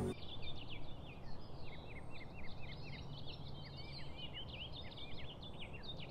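Music cuts off right at the start, then small birds chirp: many quick, short chirps over a faint steady background hiss.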